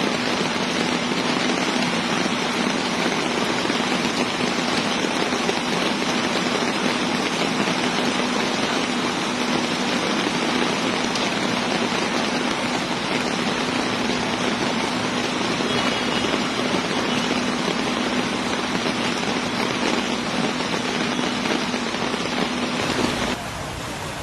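Heavy rain pouring down, a dense steady hiss with a steady low hum under it. Near the end it cuts abruptly to a quieter, steady rushing sound.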